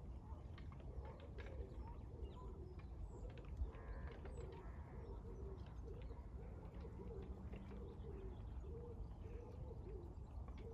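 A bird's low cooing call, repeated about a dozen times at an even pace, over faint high chirps of small birds and steady low background noise.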